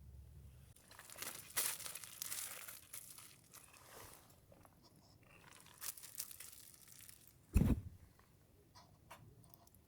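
Irregular crinkling and crackling handling noises, with a few sharp clicks and one short, dull thump near the end that is the loudest sound.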